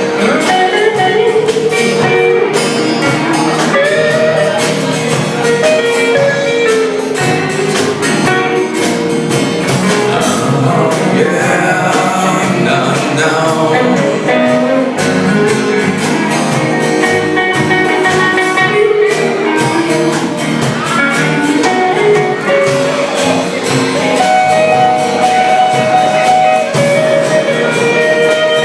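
Live band music with electric guitar and a voice singing, played loud and continuous.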